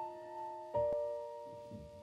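Slow, soft piano music: notes ring and fade, and a new chord is struck about three-quarters of a second in.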